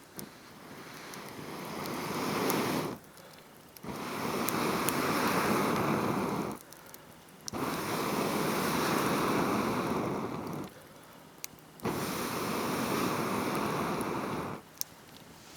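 Air being blown into a campfire in four long blows of about three seconds each, with short pauses between them. The first blow swells up gradually and the others start and stop sharply.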